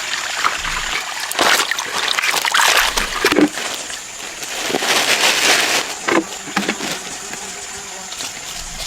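Shallow muddy water splashing and sloshing while someone fishes in it by hand. There are two longer spells of splashing, about a second and a half in and again around five seconds in, with smaller splashes between.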